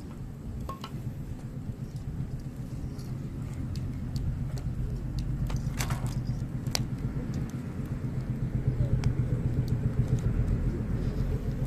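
Hardwood campfire crackling, with a few sharp pops from the burning wood, over a low rumble that grows steadily louder.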